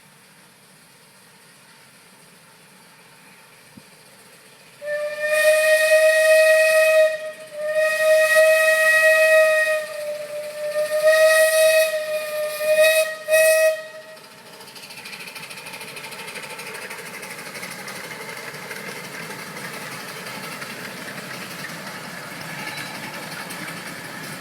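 Steam whistle of a 12-inch gauge steam locomotive sounding three long blasts and then two short ones, one clear steady note each time. A steady noise follows once the whistle stops.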